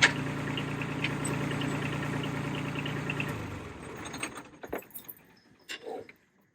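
Tractor engine running steadily, then shut off about three seconds in and winding down, followed by a few scattered metallic clicks and knocks.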